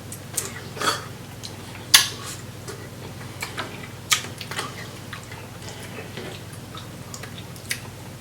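Close-up eating sounds from a seafood boil: irregular sharp clicks and cracks, as of snow crab shell being broken and picked apart, with wet mouth noises. The loudest crack comes about two seconds in and another about four seconds in, over a faint steady low hum.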